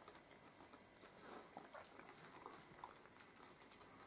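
Near silence with faint chewing and a few soft clicks, one a little sharper about two seconds in.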